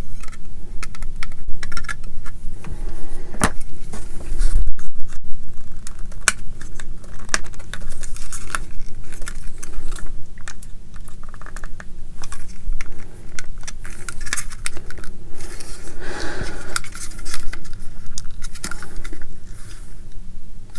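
Small plastic model-kit parts and hand tools handled on a workbench: a busy run of light clicks, taps and scrapes.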